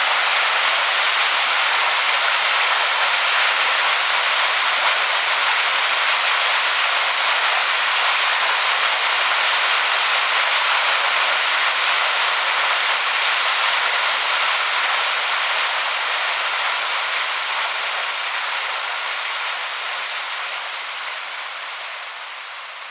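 Waterfall splashing onto rocks: a steady, even rush of falling water that fades out gradually over the last several seconds.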